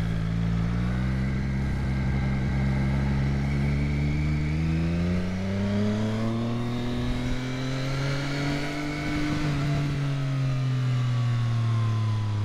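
Triumph Street Triple motorcycle's three-cylinder engine pulling under acceleration, its note rising steadily for about nine seconds, then dropping back near the end.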